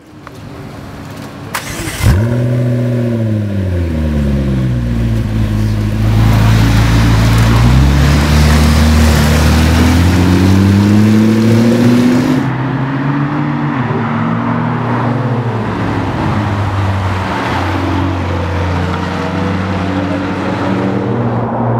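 McLaren MP4-12C Spider's twin-turbo V8 firing up about two seconds in with a short flare of revs that quickly settles, then running on with its note rising and falling as it is revved and driven, loudest in the middle.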